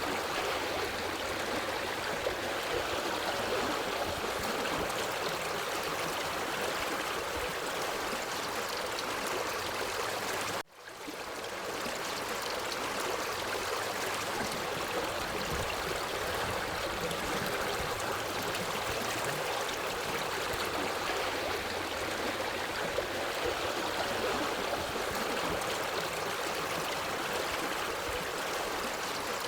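Forest stream flowing steadily, an even rush of water. About ten seconds in it cuts out abruptly and fades back in within a second.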